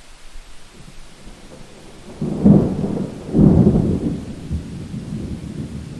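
A thunderclap during steady rain: a sudden rumble about two seconds in, swelling twice in quick succession and then fading as a long roll under the hiss of the rain.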